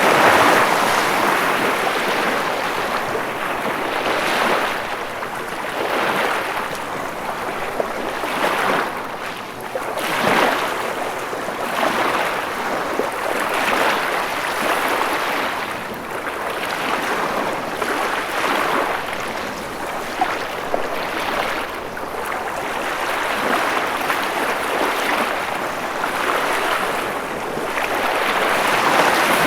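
Ocean waves: a continuous rushing wash of water that swells and eases every two seconds or so.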